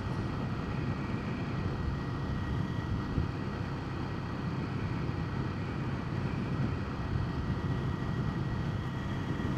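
Ducati 797 motorcycle being ridden, its air-cooled L-twin engine running at a steady pace under way, a constant low rumble with no revving or shifting.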